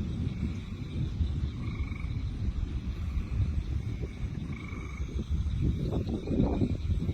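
Frogs calling in short trills, one every second or so, over a steady low rumble. The rumble swells about five and a half seconds in, like rolling thunder from the lightning storm.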